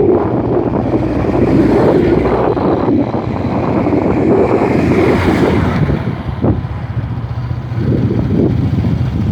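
Wind buffeting the microphone on a moving motorcycle, over the steady hum of its engine, easing a little for a moment about six seconds in.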